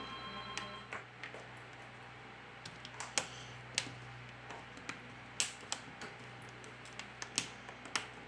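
Irregular sharp clicks and taps, about fifteen of them, from small tools and plastic and metal parts being handled and fitted while a smartphone is reassembled.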